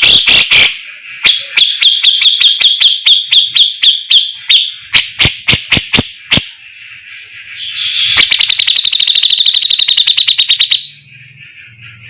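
Cucak jenggot (grey-cheeked bulbul) singing loudly in trains of sharp, rapidly repeated notes with short breaks between them. Near the end comes a fast, even rattle of about ten notes a second that cuts off suddenly.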